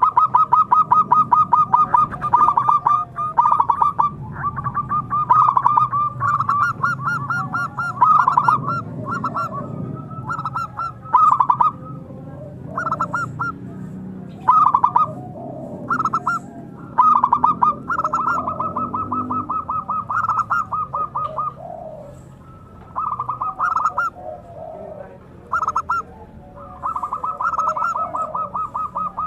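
Zebra dove (perkutut) calling: repeated bouts of fast, rolling staccato coos, each bout lasting from under a second to several seconds, with short pauses between them.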